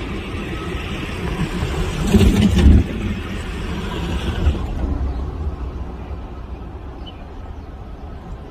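Passenger train running past: a steady low rumble of wheels on the rails, louder for a moment about two seconds in, then slowly fading away.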